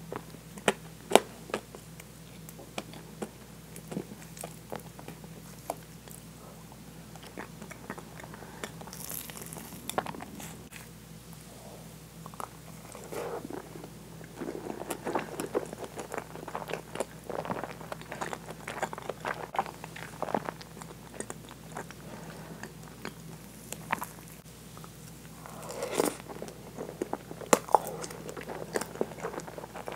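Close-miked eating sounds: a fork clicks and scrapes on a wooden plate, then soft, wet chewing and smacking of very soft French toast with whipped cream and caramel ice cream.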